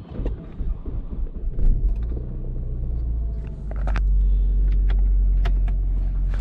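A 2003 Saab 9-5 Aero's turbocharged four-cylinder engine comes to life after a few clicks and settles into a steady idle from about two seconds in, growing louder about four seconds in.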